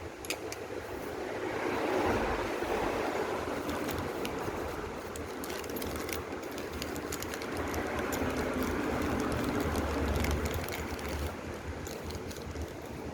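Monorail cart running along its rail: a continuous rumble that swells twice, with scattered sharp clicks.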